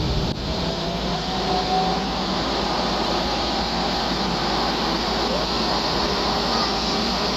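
Railjet train pulling out of the station: a steady rumble of wheels on the track, with a faint rising whine about a second in.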